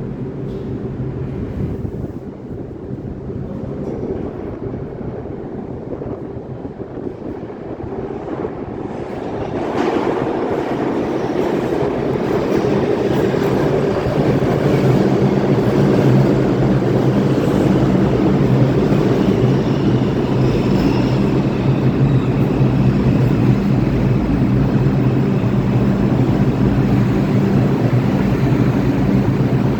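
New York City Subway R142 train pulling into the station. The rumble of wheels on rail builds from about ten seconds in, then stays loud and steady with a low hum.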